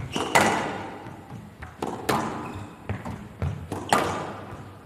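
Squash ball being struck by rackets and hitting the court walls during a rally: a run of sharp hits, each with a short echo, spaced roughly half a second to a second and a half apart.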